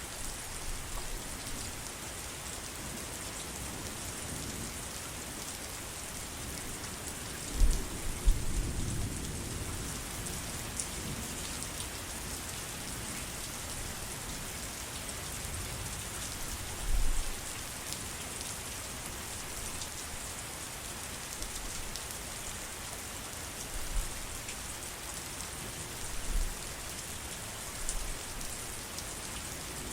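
Steady heavy rain, an even hiss of drops on surfaces. Several short, deep thumps come through it, the loudest a pair about eight seconds in and a few more later.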